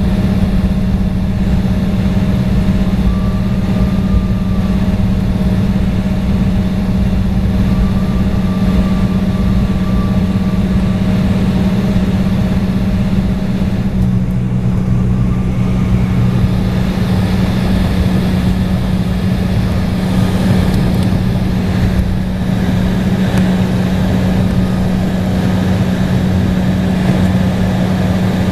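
Embraer E175 airliner heard from inside the cabin: a steady hum and rumble from its running turbofan engines.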